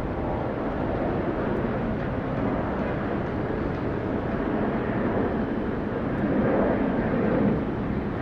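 Jet engine noise from a Delta Air Lines Airbus A220-100's Pratt & Whitney PW1500G geared turbofans: a steady rushing that swells a little near the end.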